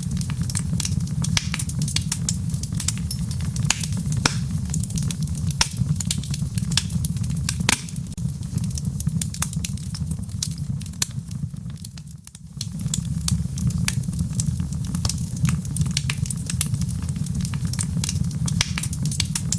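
Wood fire in a fireplace crackling: a steady low rumble of flames with frequent sharp pops and snaps. It goes briefly quieter about twelve seconds in.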